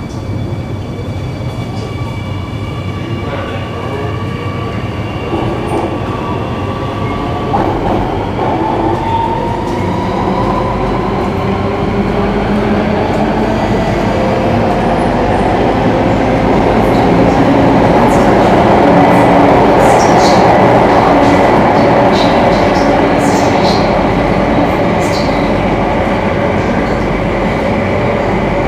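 Singapore MRT train pulling away and gathering speed: its traction motors whine in tones that rise in pitch, while the running noise of wheels and rails grows louder. A few short, high squeaks come near the end.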